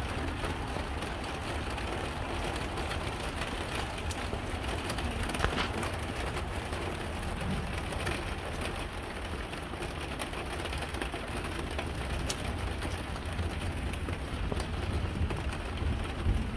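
Steady rain falling in a thunderstorm, with individual drops ticking close by over a low, steady rumble.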